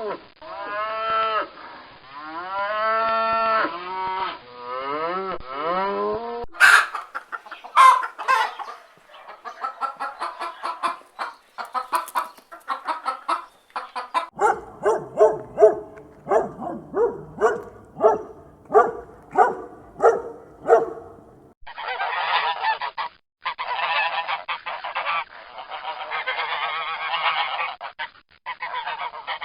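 Domestic geese honking, with a fast run of repeated honks about two to three a second in the middle. Before that come long calls that bend in pitch and sharper clattering calls, and a hissing, noisy stretch follows near the end.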